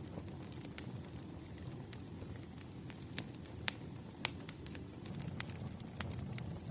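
Firewood campfire burning: a steady low rush of flames with sharp crackling pops about once a second, the two loudest a little past the middle.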